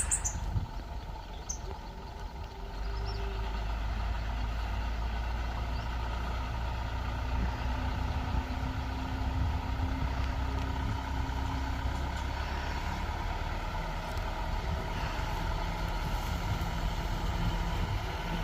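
Diesel engine of heavy earthmoving machinery running steadily, a low rumble that dips a little in the first few seconds and then holds even.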